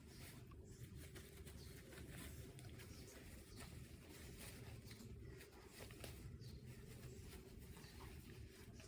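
Near silence: a low steady room hum with faint scattered small ticks and rustles.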